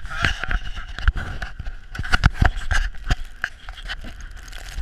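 Footsteps crunching and thumping through deep snow, an irregular run of heavy steps about two or three a second, over a steady hiss of wind and handling on the camera.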